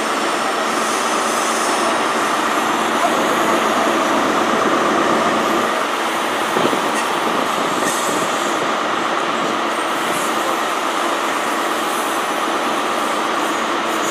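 Diesel High Speed Train pulling out, its coaches rolling slowly past with a steady rumble of wheels on rail.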